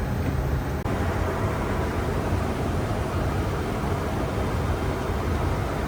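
Steady cockpit noise of a Boeing 747-400 in flight on approach: an even rush of air with a low rumble underneath.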